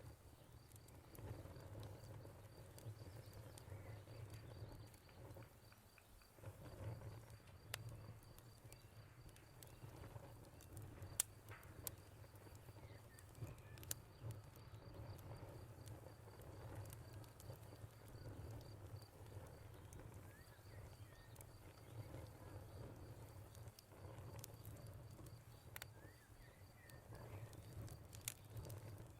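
Faint wood fire crackling, with a low steady rumble and a handful of sharp pops. A cricket chirps high up in a steady stream of rapid pulses throughout.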